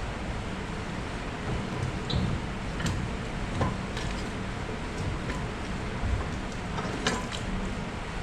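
Scattered light clinks and knocks of metal tools and parts being handled, about five over several seconds, over a steady background hiss.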